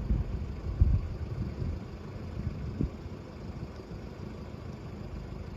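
Low, steady rumble of a road vehicle's engine idling, with a single knock about a second in.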